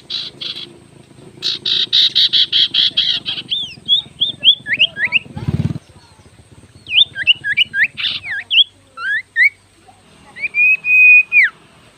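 Songbird singing a varied song: a fast run of harsh, chattering notes, then quick whistled notes sweeping up and down, ending on a longer held whistle. A single low thud comes about halfway through.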